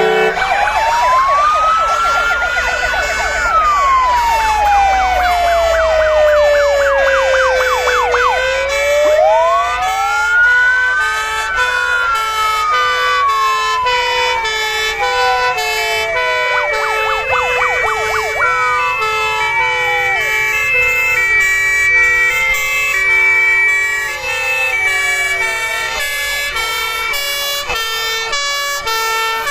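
Several fire engine sirens sounding at once: slow wails that rise and fall over a few seconds, quick yelping sweeps, and two-tone sirens switching between a high and a low note, over the low running of the trucks' engines.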